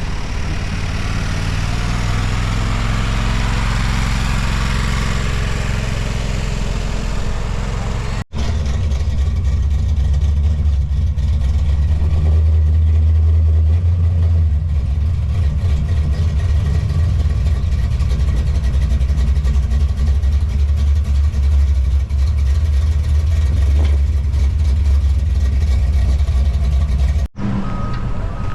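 Motor vehicle running with a steady low rumble that cuts out briefly twice. Near the end, a reversing beeper starts repeating its tone.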